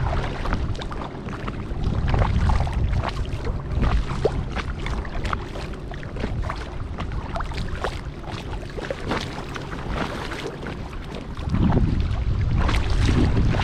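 Kayak paddle strokes dipping into lake water, with repeated small splashes and drips off the blade. A low wind rumble on the microphone comes and goes and grows louder near the end.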